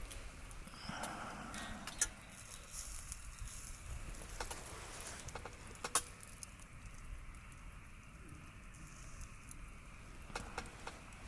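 Wood campfire crackling over a steady faint hiss, with scattered sharp pops; the loudest come about two seconds and six seconds in.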